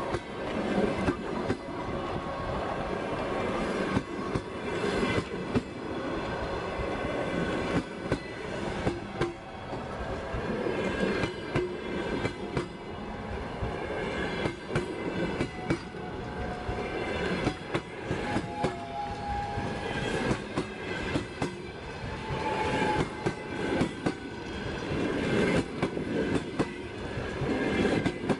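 Russian passenger coaches rolling past close by, their wheels clicking over the rail joints in a steady rattle, with a few short high-pitched wheel squeals. The train is departing and gathering speed.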